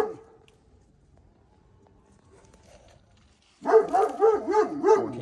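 A dog barking in a rapid run, about four barks a second, starting near the end after a few seconds of quiet.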